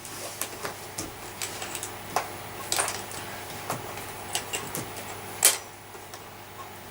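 Irregular light clicks and knocks of objects being handled, with one louder knock about five and a half seconds in.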